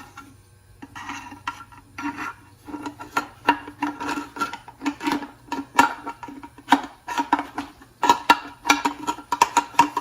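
Rag and solvent being scrubbed and swirled inside an aluminum carburetor part to clear out greasy gunk, with rapid irregular metal clinks and rubbing that ring like a small pot. The scrubbing starts about a second in and gets busier toward the end.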